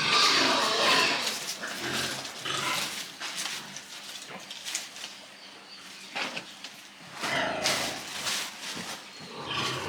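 Pigs vocalizing, loudest at the start and again about seven and a half seconds in, with a quieter stretch between.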